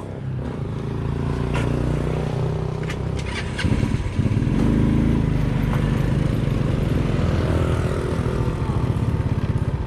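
A motor vehicle's engine running, growing louder about four seconds in, with a few light clicks just before.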